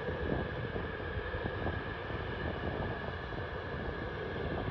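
Steady drone of a running engine with a constant high whine over it, and wind rumbling on the microphone.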